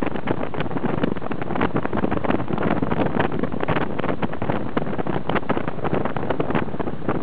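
Mitsubishi Carisma driving with the engine under way, its running mixed with wind buffeting the microphone in an irregular crackle.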